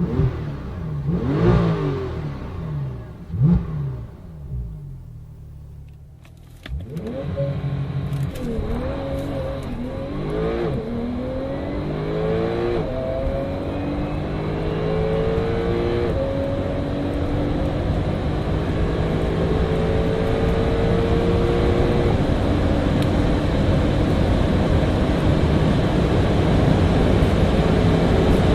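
A sports car engine revving in a few short bursts. Then another car accelerates hard through the gears, its engine note rising and dropping back at each of several shifts. It finishes with a long, slowly rising pull at high speed.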